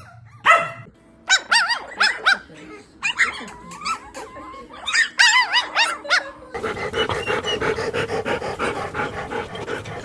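Dog barking and yelping in short calls whose pitch bends up and down, then from about six and a half seconds in a rapid, even panting.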